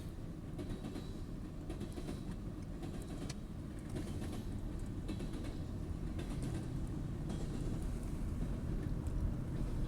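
BNSF hopper freight train rolling past: a steady low rumble with faint scattered clicks, slowly growing louder.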